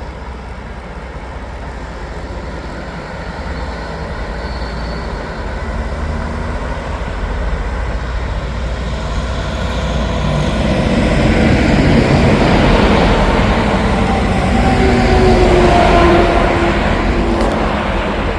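Semi truck approaching and passing, its diesel engine and exhaust growing steadily louder over the first dozen seconds, peaking in the last few seconds with a pitched engine note.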